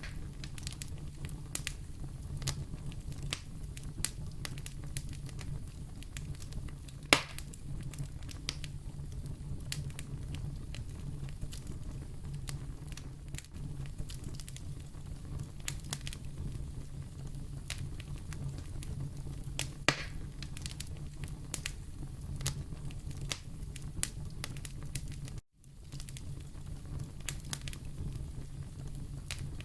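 Wood fire burning in a fireplace: a steady low rumble with frequent small crackles and two louder pops, one about 7 seconds in and one about 20 seconds in. The sound cuts out for a split second about three-quarters of the way through.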